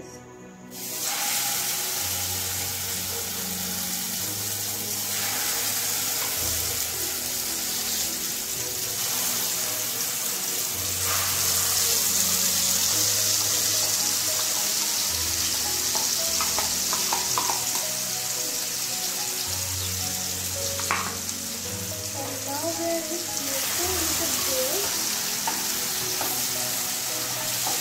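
A wet onion, tomato, melon-seed and cashew paste sizzling loudly in hot oil with whole spices in a frying pan on high flame. The sizzle starts about a second in as the paste hits the oil. It carries on while the paste is spooned in and stirred with a spatula.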